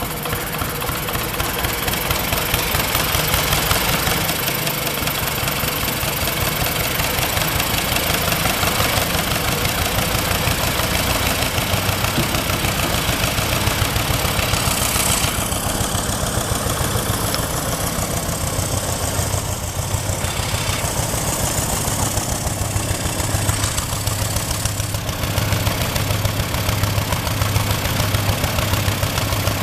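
Lister Petter diesel engine driving a compressor pump, running steadily with a rapid, even knock; the higher hiss changes character about halfway through and again near the end.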